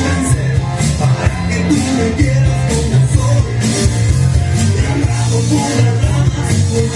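Loud live band music with singing, from a rock-style group playing.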